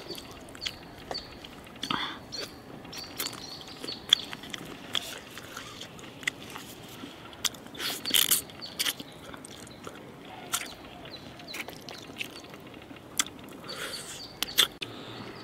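Close-up eating sounds of a person gnawing spicy braised duck necks and feet: irregular sharp bites, clicks and chewing, busiest about halfway through and again near the end.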